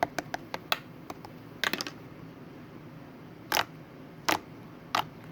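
A series of sharp clicks and taps: several small quick ones in the first second, a short cluster a little later, then three louder ones about two-thirds of a second apart near the end.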